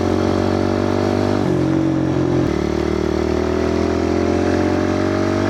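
Kawasaki KLX110 pit bike's small four-stroke single-cylinder engine running under way, its pitch climbing slowly and then dropping in a step at a gear change about a second and a half in before it climbs again.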